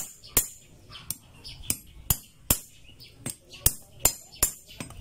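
Steel hammer striking the shaft end of a starter motor's Bendix drive resting on a metal block: a steady series of sharp metallic knocks, about two and a half a second. This is the drive being closed up after its repair.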